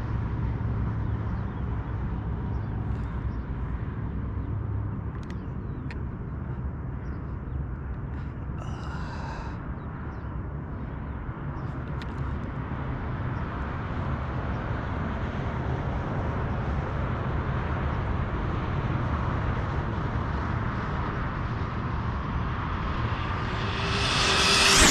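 Steady outdoor wind and road noise, then near the end a high-pitched whine swells quickly and peaks as the Hobao VTE RC car's 6S-powered electric drivetrain speeds past at full throttle.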